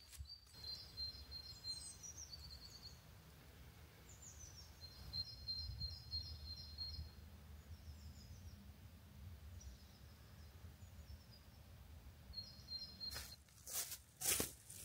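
Songbirds singing in short, high chirping phrases every few seconds over a faint low rumble. A run of sharp steps begins near the end.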